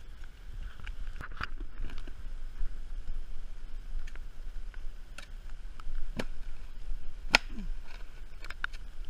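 Digging in a wet hole with a hand digging tool: scattered scrapes and knocks of the blade in muddy soil, the sharpest two about six and seven seconds in.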